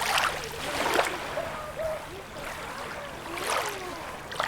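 Small sea waves washing at the shoreline, water splashing and gurgling in irregular surges.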